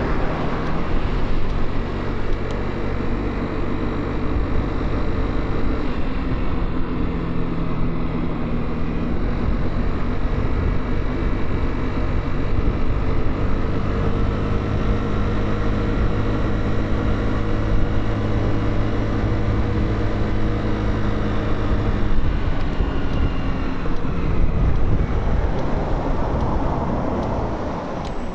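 Motorcycle engine running while riding, with steady wind and road noise. The engine note steps to a new pitch a few times, and near the end it fades under a swell of rushing noise.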